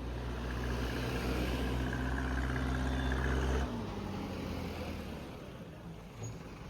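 Diesel engine of a backhoe loader running at a steady speed. About three and a half seconds in, the engine note drops and fades to a quieter rumble.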